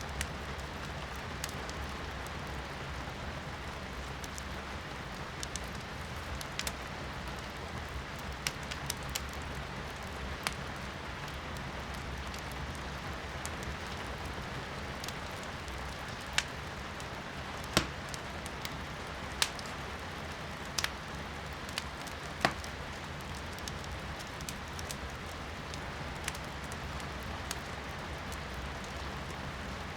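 Firewood crackling in a fireplace, with scattered sharp pops, a handful of louder ones about halfway through, over a steady hiss of rain heard from inside the room.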